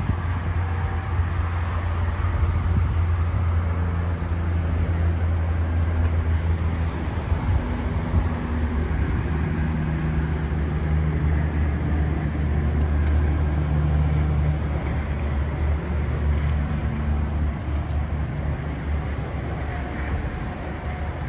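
2020 Yamaha XSR900's 847 cc inline-three engine idling steadily.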